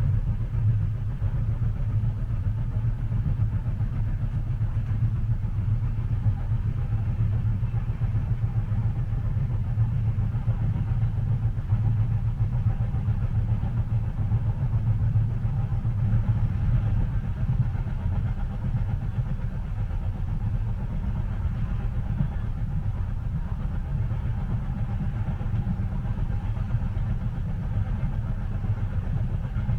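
Steady low rumble of a moving train heard from inside a passenger car, an even drone with no distinct track clacks.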